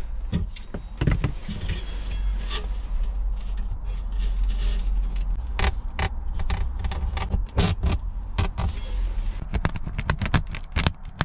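Irregular clicks, scrapes and rattles of hand work as a hole is cut through the camper van's mesh window screen for the heater's flue pipe, over a steady low rumble.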